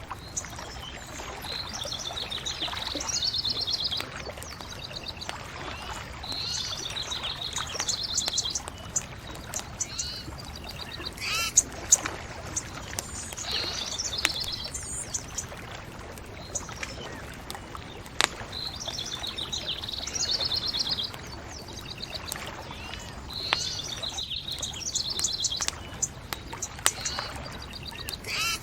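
Songbirds singing over a steady background hiss, with trilled phrases repeating every few seconds. A few sharp pops from the crackling bonfire come through, two close together about midway.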